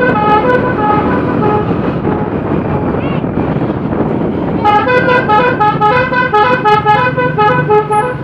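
Multi-tone musical vehicle horn playing a tune of short stepped notes, pausing for about three seconds midway, over a steady engine and road rumble.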